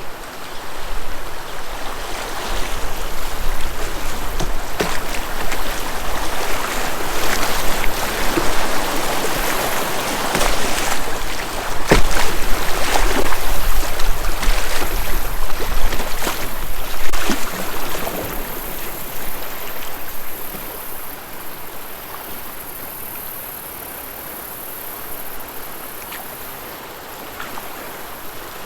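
Creek water rushing and splashing around a kayak, louder for the first two-thirds with a few sharp splashes or knocks, then settling to a quieter steady flow.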